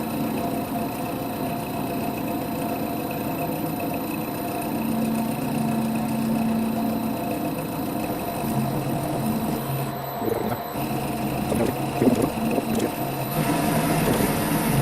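Holbrook C8 toolroom lathe running with a steady hum and whine. From about eight seconds in, an irregular clatter joins it.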